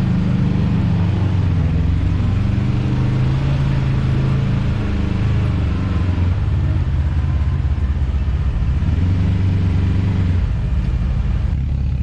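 Side-by-side UTV engine running under changing throttle, its note rising and falling, with a shift in the engine note near the end.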